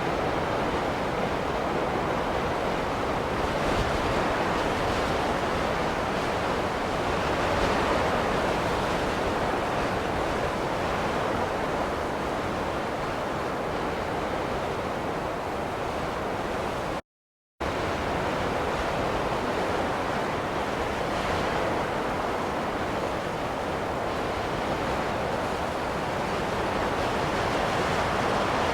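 Steady rushing ambient noise that swells and eases every few seconds. It is cut by a sudden half-second dropout to silence about two-thirds of the way through.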